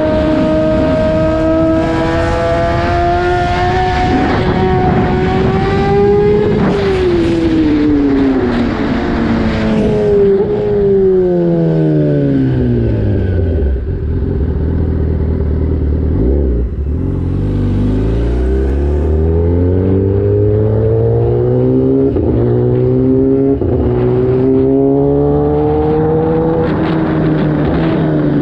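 Kawasaki Ninja ZX-10R inline-four with a full race exhaust, heard from on board while riding. The engine note climbs for about six seconds, winds down for several seconds, climbs again through the second half and falls away near the end.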